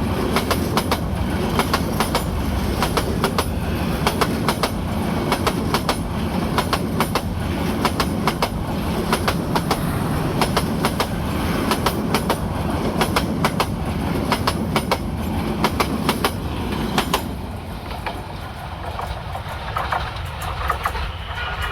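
Bangladesh Railway express train running past, its wheels clacking rapidly over the rail joints above a steady low rumble. The clacking stops about four seconds before the end, leaving a quieter rumble.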